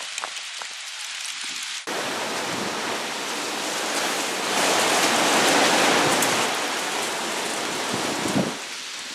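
Wind and rain of a monsoon dust storm: a steady rushing hiss that starts abruptly about two seconds in, swells in the middle and eases near the end.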